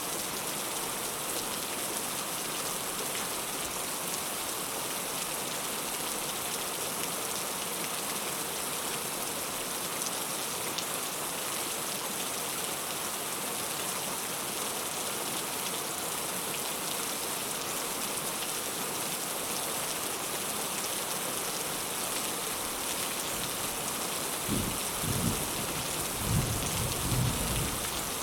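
Heavy rain falling steadily. Near the end, a low rumble of thunder comes in a few pulses.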